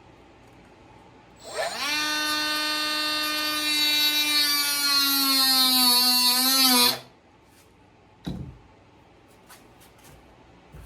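A small high-speed electric power tool spins up quickly to a steady high whine, runs for about five seconds with its pitch wobbling slightly near the end, then cuts off. A single knock follows.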